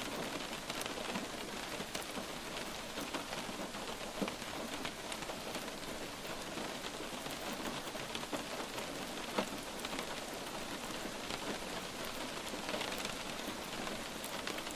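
Light rain falling steadily, a dense patter of drops with a few sharper, louder drips landing close by.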